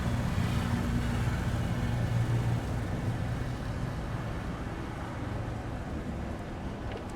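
An engine's low steady hum, loudest for the first two and a half seconds and then fading gradually.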